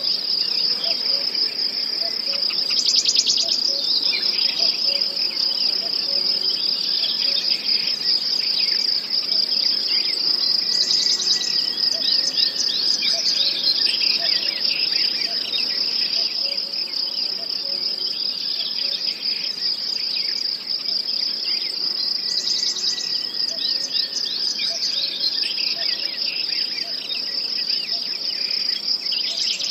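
Nature-ambience recording of crickets and other insects chirping steadily in a continuous high chorus. Every several seconds a brief, faster, higher trill comes in over it.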